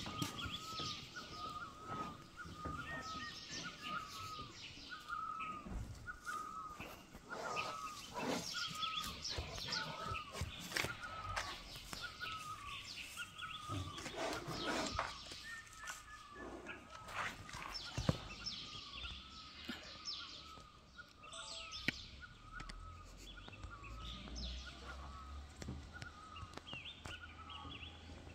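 A bird calling over and over, a short chirp repeated about twice a second, over irregular rustling and scuffling, with a couple of sharp clicks near the end.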